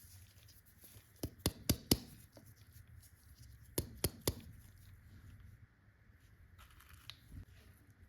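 Candy packaging being handled and opened: a quick run of four sharp clicks or taps, then three more about two seconds later, over faint rustling.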